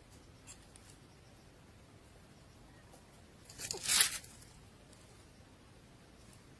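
A brief rustling, scraping noise just past the middle, loudest for a moment near its end, with a few faint ticks before it.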